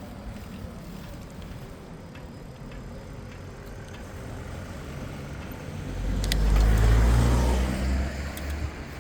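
A motor vehicle's engine passes close by, swelling loudly about six seconds in and fading near the end, over steady street noise.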